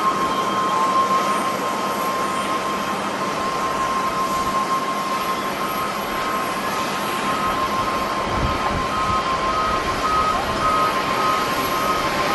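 Jet airliner engines running with a steady loud rush and a constant high whine. A brief low thump about eight seconds in.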